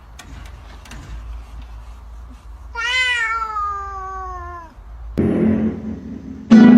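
A cat meowing: one long drawn-out meow of about two seconds that rises briefly and then falls in pitch. A rougher, lower noise follows about five seconds in.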